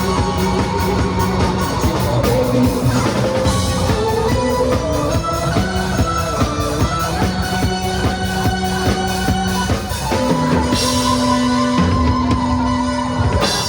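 Band playing an instrumental passage on drum kit, electric guitar and bass, with no singing. The band settles on a long held note in the last few seconds, with cymbal crashes as it begins and again right at the end.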